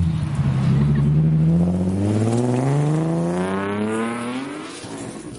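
A car engine accelerating hard, its pitch climbing in one long, unbroken rise, then fading near the end as the car pulls away.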